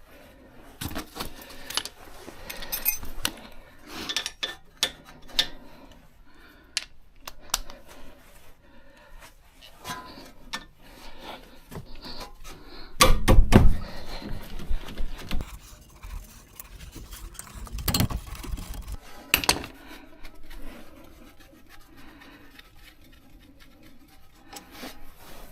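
Metal tools and parts clinking and clanking during brake work, with scattered sharp clicks and two heavy thuds, about halfway through and again a few seconds later.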